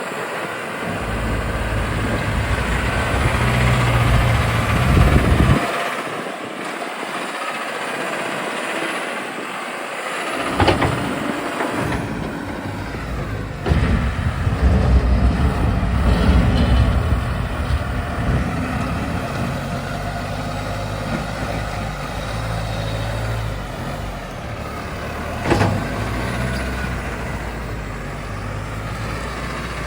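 Big farm tractor's diesel engine working hard as its front-end loader bucket pushes gravel, the engine note rising and easing with the load. A couple of sharp knocks stand out.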